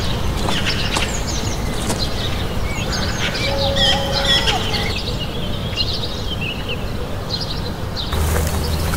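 Small birds chirping in many quick, short calls over a steady low rumble. A steady low hum comes in near the end.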